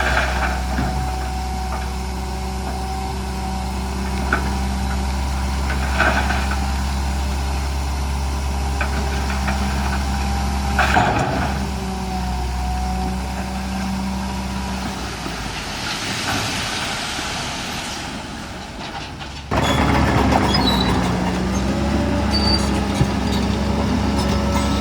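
Heavy diesel earthmoving machinery running steadily, with a few metallic clanks and a hiss about sixteen seconds in. A little before twenty seconds the sound cuts abruptly to a louder engine.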